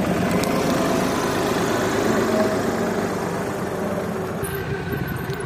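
Tractor engine running steadily, easing off a little near the end.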